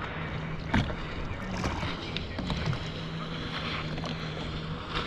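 Sea-Doo personal watercraft engine running steadily at idle, a low even hum over a wash of water and wind noise, with a few short sharp knocks, the loudest about three-quarters of a second in.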